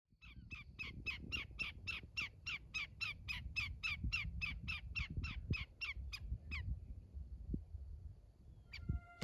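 A bird giving a long run of sharp, evenly repeated call notes, about four a second, that stops after six or seven seconds, over a low rumble of wind noise and a few knocks.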